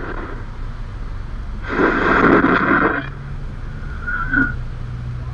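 Motorcycle engine idling with a steady low rumble. About two seconds in, a noisy burst lasts about a second, and a brief faint tone follows near the end.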